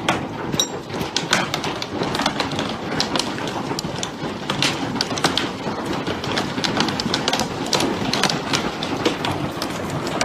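Hail pelting down: a dense, irregular clatter of hailstones striking hard surfaces over a steady rushing noise.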